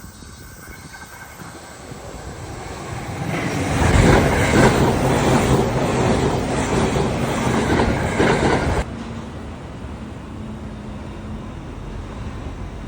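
E657 series electric train on the Joban Line running past at speed: the rail noise builds over a couple of seconds into loud wheel clatter over rail joints. About nine seconds in it drops suddenly to a lower, steady rumble with a faint hum.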